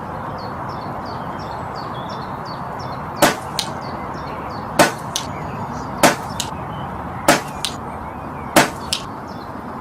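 Five sharp knocks about 1.3 seconds apart, starting about three seconds in, each followed a moment later by a fainter knock, over a steady background hiss. Faint high birdsong chirps in the first few seconds.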